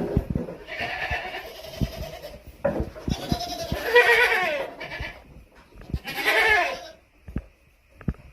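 Goats bleating: three wavering calls, the middle one loudest, with scattered low thumps and knocks between them.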